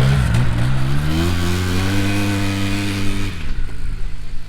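Homemade chain-drive crosskart's engine revving up under acceleration, holding a steady pitch for about two seconds, then dropping quickly as the throttle comes off near the end.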